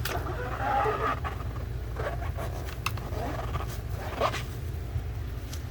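Short scrubbing and scraping sounds with a few light knocks, typical of a sponge being worked over the plastic inside of a refrigerator, over the steady low hum of a running air conditioner.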